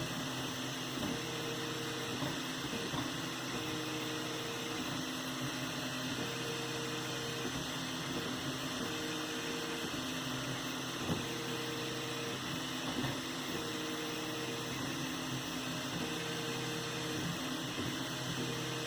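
3D printer running a print: its stepper motors whine in steady tones that change pitch and break off about every second as the moves change, over a steady hiss.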